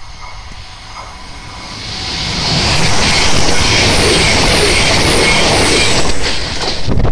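CrossCountry passenger train passing close by on the near track. The noise builds from about two seconds in to a loud rush of wheels on rail with a thin high squeal over it, and falls away about six seconds in as the train clears.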